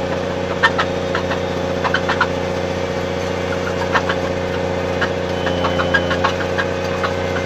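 Snowcat engine running steadily, a constant drone with scattered light ticks and rattles from the machine.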